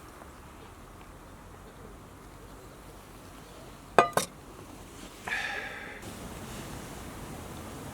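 Two sharp clinks of hard objects knocking together about four seconds in, each ringing briefly, then a short ringing scrape about a second later, over quiet outdoor background.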